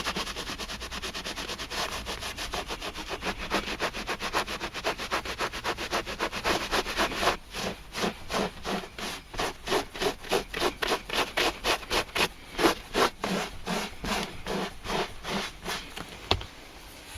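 A cloth (an old sock wet with methylated spirits) rubbing back and forth over the old leather of a chesterfield chair, washing off the surface sealer. Quick, even strokes at first; from about halfway, slower and more separate strokes of about two a second; they stop shortly before the end.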